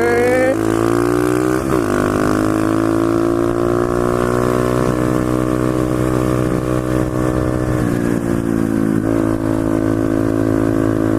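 Pit bike engine revving up hard under throttle, then running steadily at riding speed with a slowly rising pitch. The revs dip briefly about two seconds in and twice more near the end.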